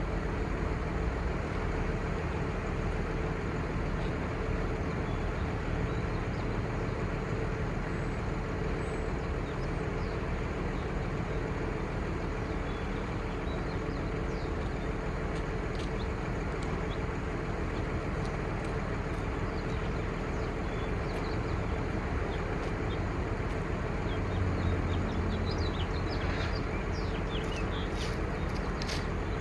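The truck's 5.9L Cummins six-cylinder turbo diesel running steadily, with a steady whine riding over the engine sound and a few sharp clicks near the end.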